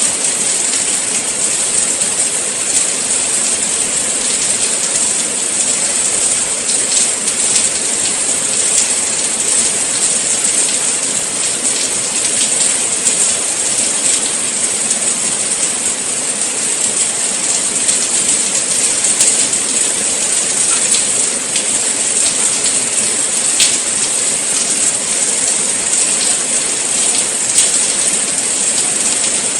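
Steady rain falling: a dense, even hiss with faint scattered drop taps.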